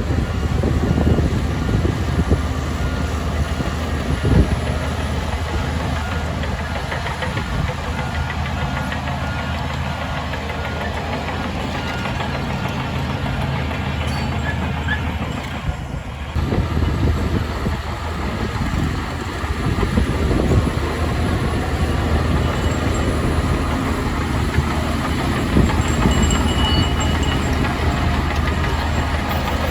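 Heavy earthmoving machinery's diesel engine running steadily with a low drone, with occasional knocks and clanks; the engine sound dips briefly about halfway through and then picks up again.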